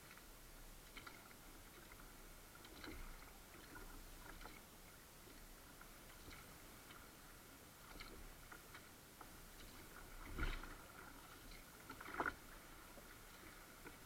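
Faint sounds of a kayak being paddled on calm water: small splashes, drips and clicks, with two louder short splashes or knocks near the end.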